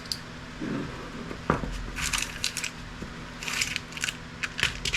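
Small hard scrap pieces clicking and rattling together as they are handled, in a few short bursts of clinks.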